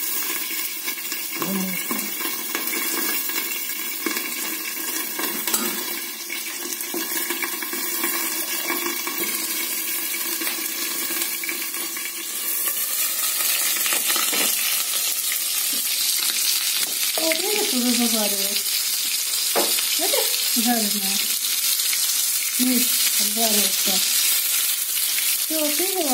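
Chicken cutlets in egg-and-flour batter sizzling as they fry in oil in a pan. The sizzle grows louder and brighter about halfway through, when the lid comes off the pan.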